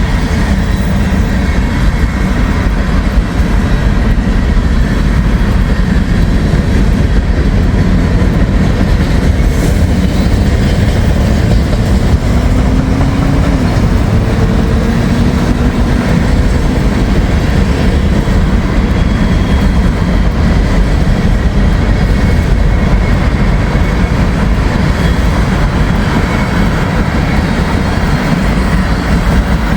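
Freight train cars rolling past at trackside: a loud, steady rumble and rattle of steel wheels on rail.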